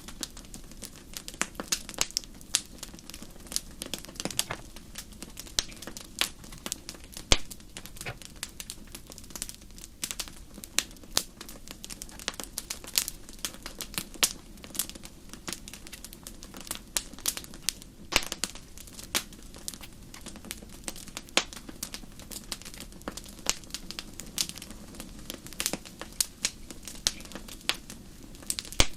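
Wood fire crackling: irregular sharp pops and snaps, several a second, over a steady low rush.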